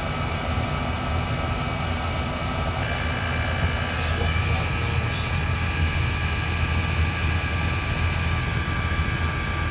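Trane XE1000 heat pump outdoor unit running in cooling: a steady low hum from the compressor together with the condenser fan.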